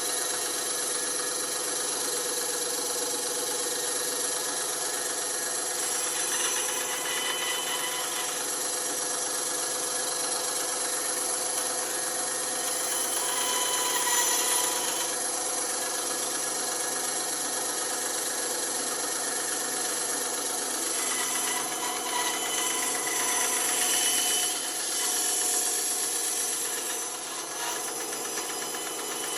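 Electric band saw running steadily, with its tone shifting briefly a few times as the blade works.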